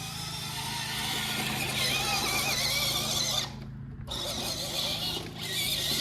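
An electric RC monster truck's motor and gears whining, rising and falling with the throttle. The whine cuts out for about half a second a little past halfway and dips again briefly near the end.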